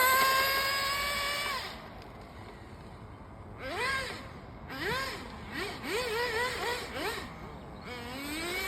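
Small two-stroke glow engine of an FTX Banzai nitro 1/10-scale RC drift car. It holds a high-pitched rev that fades away after about two seconds, then gives a string of short throttle blips that rise and fall in pitch, and it revs up again near the end.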